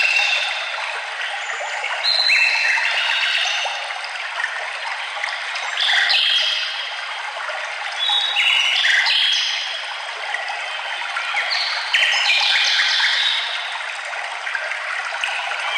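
Songbirds singing short phrases of clear notes that step up and down in pitch, a new phrase every three to four seconds, over the steady rush of a stream.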